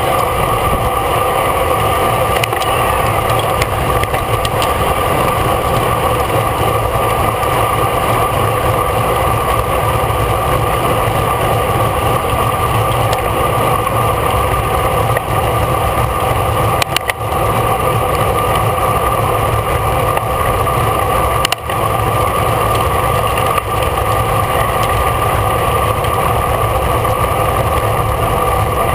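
Steady loud rush of wind and road noise on a camera mounted on a racing bicycle at speed, with a constant low hum under it and two brief dropouts.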